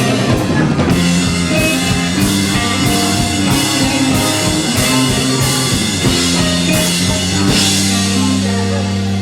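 Live rock band playing an instrumental passage on drum kit, electric guitars and bass. About three-quarters through, a crash, and then a single chord is held ringing.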